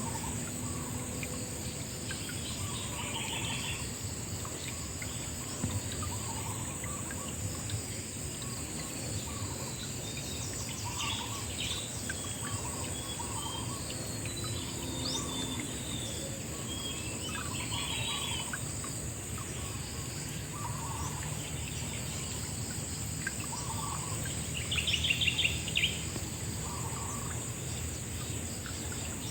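Outdoor nature ambience: a steady, high-pitched insect drone with birds calling over it. A short trilled bird call repeats every several seconds, loudest near the end, and softer low calls come every couple of seconds over a low steady rumble.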